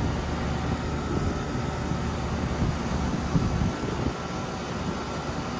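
Outdoor central air-conditioner condensing units running: a steady hum of the condenser fan and compressor, with a few faint steady tones over it.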